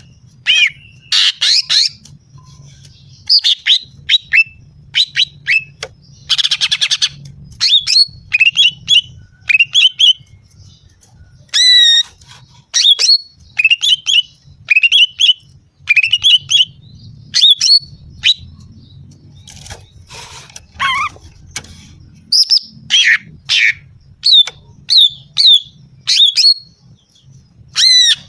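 Female greater green leafbird (cucak ijo) calling: a rapid run of short, sharp whistled notes, many sweeping down in pitch, with a brief harsh rattle about six seconds in. It is the female's call used as a lure to draw and excite males.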